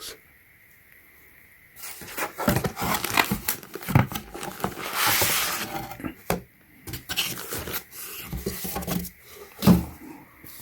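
Unboxing handling: packaging and accessories being rustled and moved about, with irregular clicks and light knocks, a rustling stretch in the middle and one sharper knock near the end.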